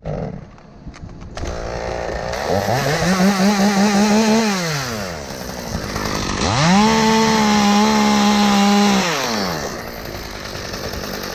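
Chainsaw cutting a tree limb: the engine runs up to full throttle twice, holding a high steady pitch for about two seconds each time before dropping back toward idle.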